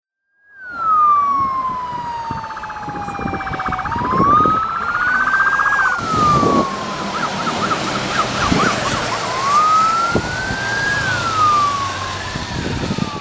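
Police escort siren wailing, its pitch sweeping slowly down and up several times, switching briefly to a fast warble in the middle, over the rumble of passing vehicles.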